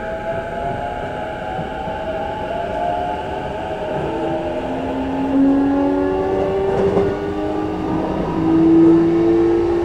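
E233-5000 series electric train running between stations, heard from inside the car: a steady rumble of wheels on rail with several whining tones from the traction motors that drift slowly in pitch, a little louder in the second half.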